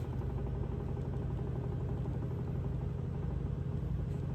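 A steady low hum with no break or change.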